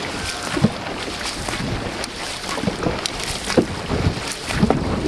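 Dragon boat paddles splashing and the hull rushing through the water, with scattered sharp splashes from paddle strokes, under wind buffeting the microphone.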